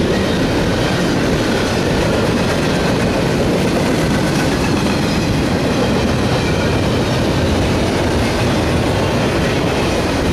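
Double-stack intermodal freight train's loaded well cars rolling past close by: a loud, steady rumble and rattle of steel wheels on the rails.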